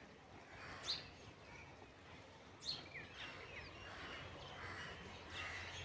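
Faint outdoor background noise with a few short, high bird chirps; two sharp ones stand out, about a second in and near the middle.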